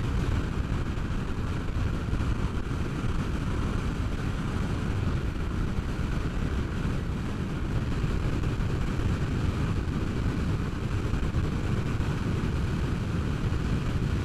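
Honda CBR sport bike riding at a steady speed: a continuous low rumble of engine and wind rush on the microphone, with no clear changes in revs.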